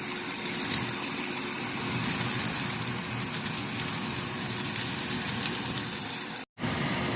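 Garlic and onions sautéing in hot oil in a pan: a steady crackling sizzle, cut by a brief dropout near the end.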